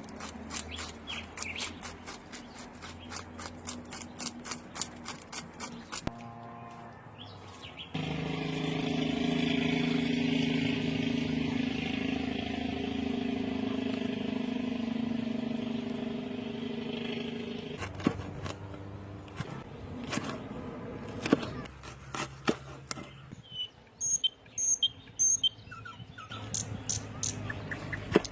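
Hot oil crackling and popping as food fries outdoors. A motor vehicle's engine runs steadily for about ten seconds in the middle, and birds chirp near the end.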